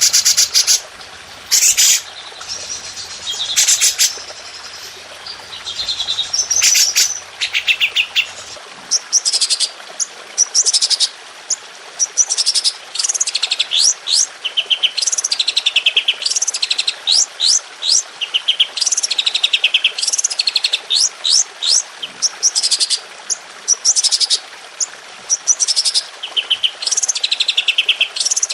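Recorded songbird song with rapid-fire 'tembakan' phrases: harsh rattling bursts at first, then from about 9 seconds in a dense run of sharp, steeply falling high notes and fast trills repeated one after another.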